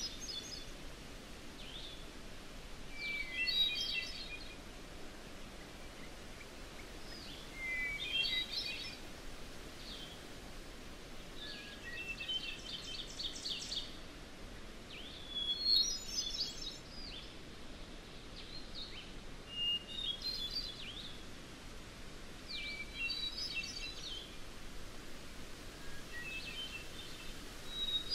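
A songbird singing short, intricate phrases of about a second each, one roughly every four seconds, with scattered single bird notes in between. Underneath is a steady, faint hiss of outdoor ambience.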